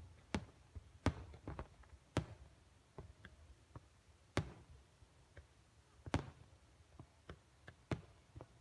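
Fireworks bursting in the distance: a string of sharp, irregular pops and bangs, about one or two a second.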